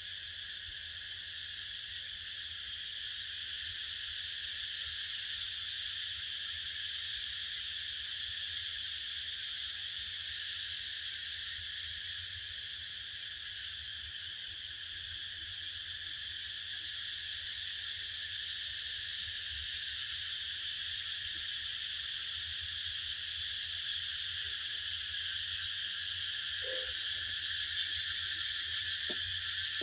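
Continuous insect chorus, a steady shrill buzz held at several pitches without a break, slowly growing louder toward the end.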